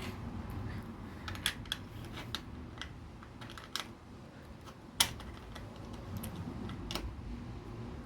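Small LEGO plastic pieces clicking and tapping as they are handled and pressed together, irregular light clicks with one sharper snap about five seconds in.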